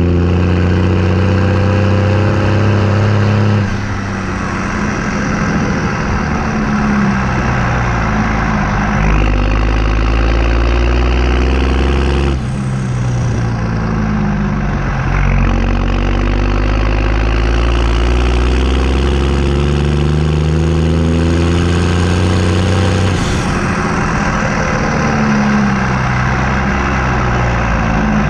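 New Holland T6030 tractor's diesel engine running through a straight-pipe exhaust, its engine speed repeatedly falling and climbing. The note changes suddenly a few seconds in, around the middle and again near the end.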